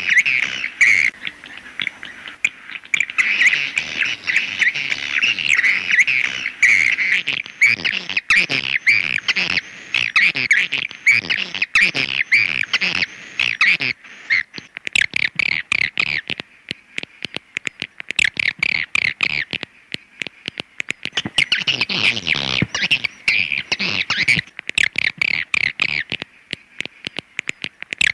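Swiftlet call sound: a dense, continuous twittering of rapid high chirps, thick for roughly the first half and breaking into more separate chirps later. This is the call track played to lure edible-nest swiftlets into a swiftlet house.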